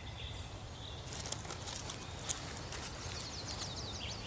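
Natural ambience: a low rumble with scattered short, high clicks. About three seconds in, a rapid run of short, high, falling chirps begins, about four a second.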